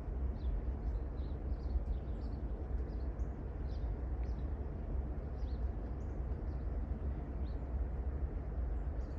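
Low, steady rumble of approaching GP38-2 diesel locomotives, with small birds chirping in short, high notes throughout.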